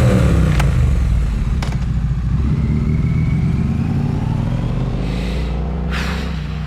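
Motorcycle engine running, loud at first and easing off slowly, its pitch drifting a little lower.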